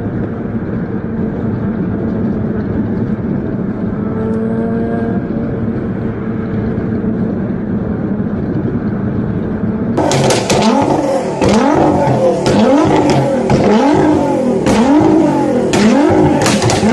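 A car engine running with a steady drone, then, after a cut about ten seconds in, a supercar engine revved over and over, its pitch rising and falling with each blip of the throttle.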